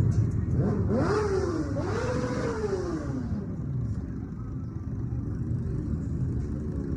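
Motorcycle engine revved several times in quick succession, pitch rising and falling, then dropping back to a steady low running sound.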